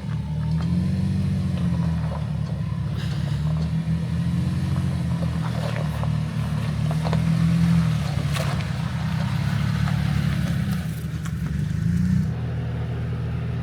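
Jeep Cherokee XJ engine pulling up a rough, rocky trail, its pitch rising and falling repeatedly with the throttle, with scattered knocks and rattles from the vehicle working over rocks. Near the end it settles to a steadier, lower note.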